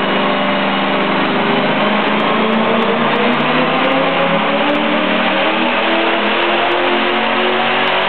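Worked 5.7-litre V8 of a Holden Statesman running hard on a chassis dyno, loud and steady, its pitch climbing gradually as the revs build.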